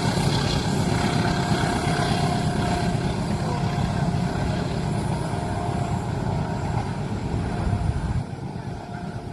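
A train running past close by: a loud, steady rumble that drops away suddenly about eight seconds in as it clears.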